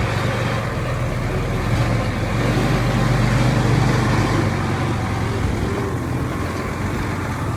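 Heavy diesel engine of earthmoving machinery running steadily with a low drone, swelling a little about three to four seconds in.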